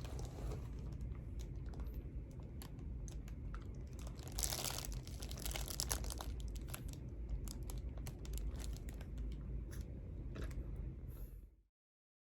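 Irregular small clicks and crinkling handling sounds over a steady low hum, with a louder rustle about four and a half seconds in; everything cuts off abruptly near the end.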